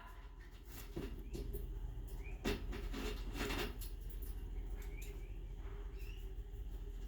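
Budgerigars giving a few faint, short, upward chirps, spaced a few seconds apart, over light scratching and tapping.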